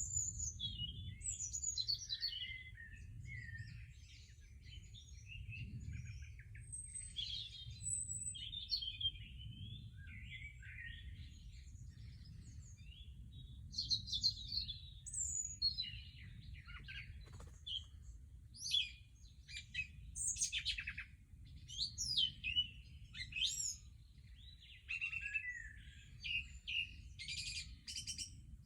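Pre-dawn chorus: several songbirds singing at once, their overlapping whistled phrases, trills and chirps following one another without a break, over a low steady rumble.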